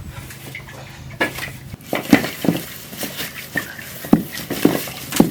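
Metal kitchen utensils knocking and clinking against a pot, a string of irregular knocks starting about a second in.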